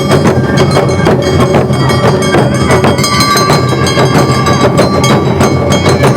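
Awa Odori festival band playing: drums and a bright clanging hand gong keep a fast, driving beat under sustained flute tones.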